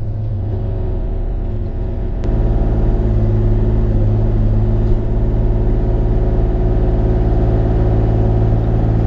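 Bobcat E35 mini excavator's diesel engine running steadily, stepping up louder about two seconds in.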